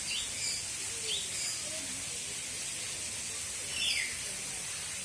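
Birds chirping: a few short, quick calls, one just after the start, one about a second in and a louder one near the end, over a steady hiss.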